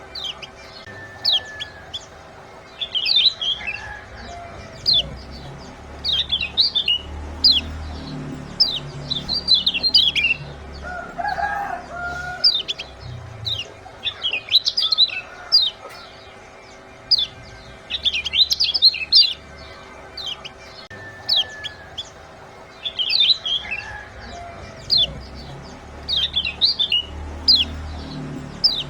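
Kecial kuning white-eye giving its sharp 'ciak' chirps. The chirps come in quick clusters of short, high, downward-slurred notes, repeated every second or two: a lure call used to get quiet caged birds singing.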